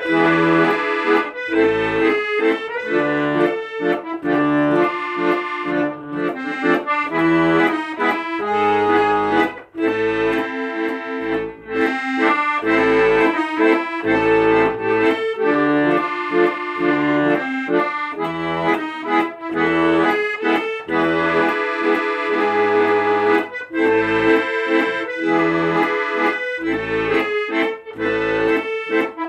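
Accordion music: a sustained melody over a regular pulse of bass notes and chords.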